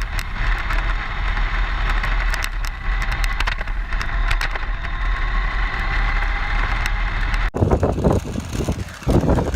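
A vehicle running along a road: a steady whine over road noise and a low rumble, with many sharp ticks like grit under the tyres. The sound cuts off abruptly about seven and a half seconds in, and uneven gusty rumbling follows.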